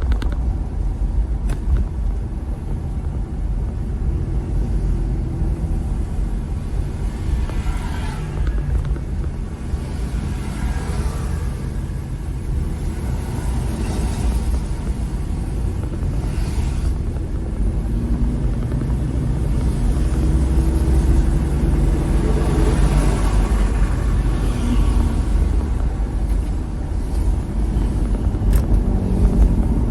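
A car being driven: steady low engine and road rumble, with the engine note shifting up and down and brief hissing swells from time to time.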